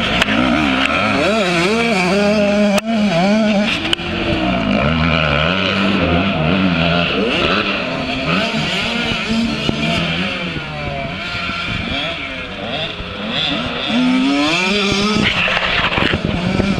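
85cc two-stroke motocross bike engine revving hard, its pitch rising and falling again and again as the rider opens and closes the throttle and shifts through the gears around the track.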